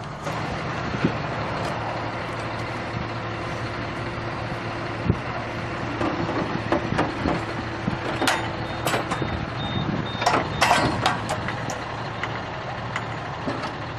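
Tractor engine running steadily, with a handful of sharp clanks about eight to eleven seconds in.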